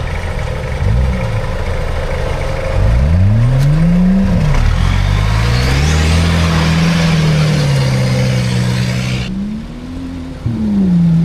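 Off-road 4x4's engine revving up and down repeatedly under load, with a loud rushing noise over it for several seconds that cuts off suddenly; the engine then revs again near the end.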